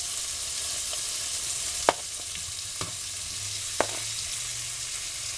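Chopped pork roast sizzling in a pan with green chilies and onion while being stirred, with a steady hiss. A utensil knocks sharply against the pan twice.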